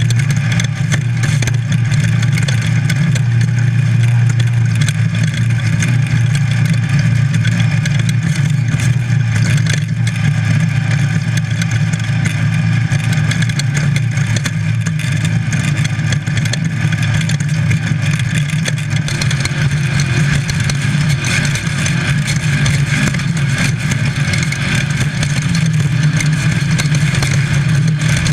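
Baja Bug's VW engine running hard at a fairly steady pitch throughout, heard from inside the car, with constant rattling and clatter of the car and road noise over rough ground.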